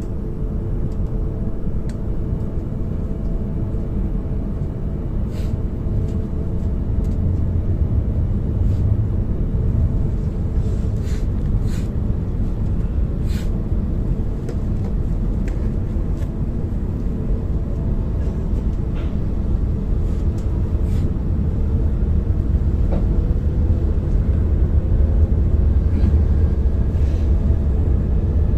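E5 series Shinkansen running, heard inside the passenger car: a steady low rumble that grows a little louder near the end, with a few faint scattered clicks.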